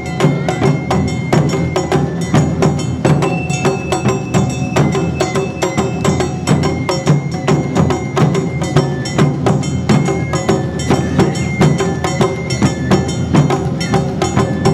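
Live Awa odori festival music: a fast, steady beat of taiko drums with rapid strikes on small metal hand gongs (kane).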